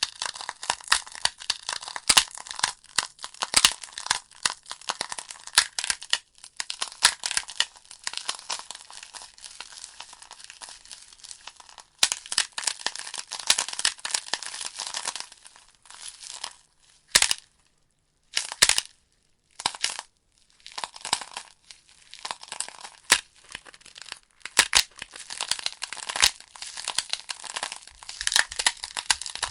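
Wood fire crackling in a fireplace: a dense run of sharp pops and snaps over a crisp hiss. About halfway through it thins to a few isolated pops with short quiet gaps, then builds back to a steady crackle.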